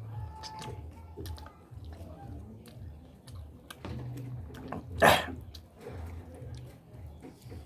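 A person chewing meat close to the microphone, with many small wet mouth clicks and one louder, noisy mouth sound about five seconds in.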